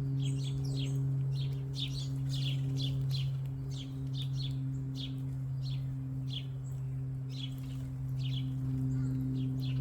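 Small songbirds chirping busily: many short, high, falling chirps, several a second. Under them runs a steady low hum, the loudest sound.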